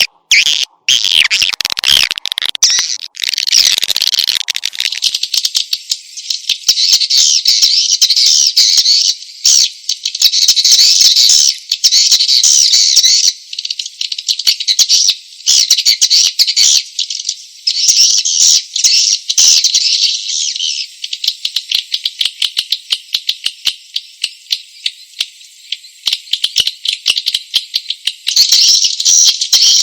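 Swiftlet lure call recording: edible-nest swiftlets' dense, high-pitched, rapid twittering chatter, the kind played to attract swiftlets to a nesting house. It swells and thins, growing sparser in the second half before filling out again near the end.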